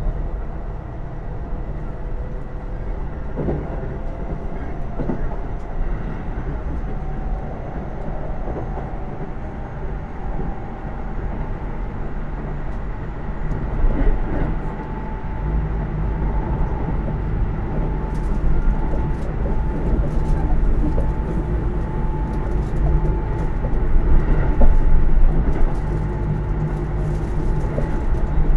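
Interior running noise of a Keisei AE100 limited-express car under way: a steady low rumble of the train rolling on the rails, with faint steady tones above it. Sharp clicks come more often in the second half, and the noise swells briefly near the end.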